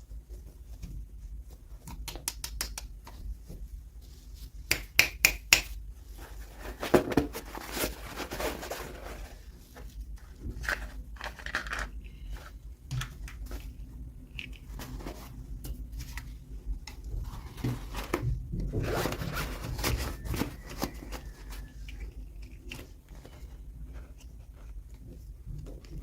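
Toy packaging being handled and opened by hand: runs of sharp clicks about two seconds in and again around five seconds, then rustling and scraping, heaviest around seven to nine seconds and again around nineteen to twenty.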